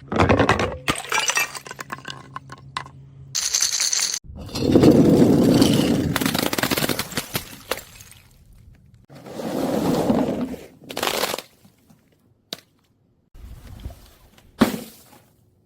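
Brittle objects being crushed and broken, crunching and cracking in several separate bouts, the longest and loudest about a third of the way in, with a few short cracks near the end.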